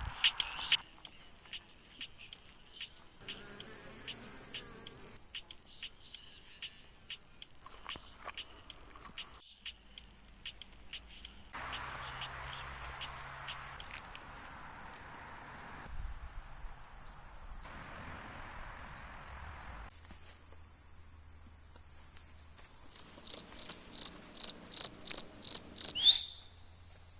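Insects, crickets or cicadas, droning in a steady high-pitched chorus that changes abruptly every few seconds. Near the end, a quick run of about ten sharp chirps, roughly four a second, stands out above the chorus.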